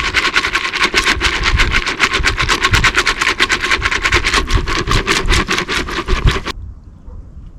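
Groundbait being mixed: a fast, even rattling of about seven strokes a second over a steady hum, which stops abruptly near the end.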